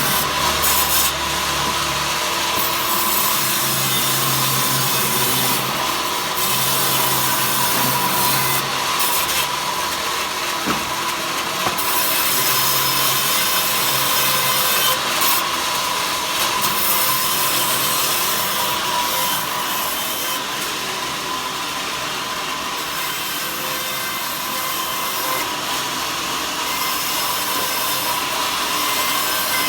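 A saw cutting wood continuously, with a steady whine running under the cutting noise.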